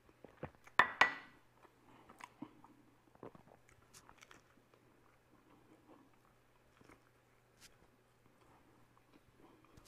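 A ceramic mug knocks twice as it is set down on a granite countertop about a second in, followed by close-up biting and chewing of a soft white-bread egg-and-sausage sandwich, with small wet mouth clicks.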